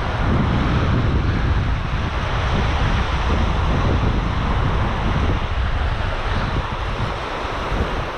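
Wind buffeting the microphone over surf washing on the shore: a steady rushing noise with a heavy low rumble.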